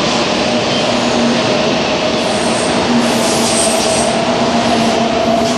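Tokaido Shinkansen train running slowly along the platform: a steady rumble of wheels on rail with a steady hum, and faint high squeals about halfway through.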